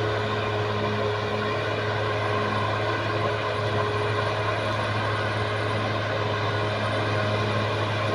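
Caterpillar D6R XL bulldozer's diesel engine running steadily, with a constant low hum and an even, pulsing note.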